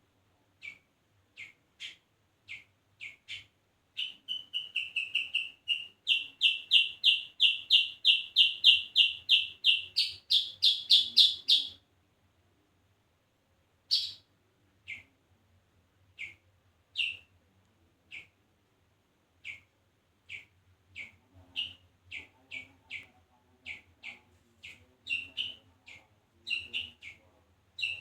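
A songbird calling, most likely a bulbul (kutilang). It gives sharp single chips, then a fast run of repeated notes from about four seconds in that grows louder and jumps higher in pitch before stopping. After a two-second pause the separate chips come back, gradually closer together.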